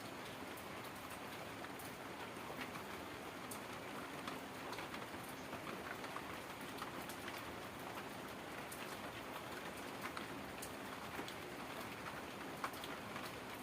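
Steady rain falling, a constant hiss with many small scattered drop clicks.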